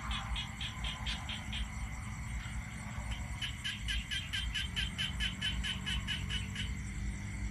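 A frog calling in runs of rapid, evenly spaced pulses, about five or six a second, in two bursts of a few seconds each, over a steady low rumble.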